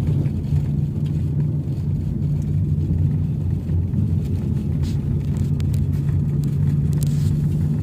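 Car driving along a road: a steady low drone of engine and tyre noise.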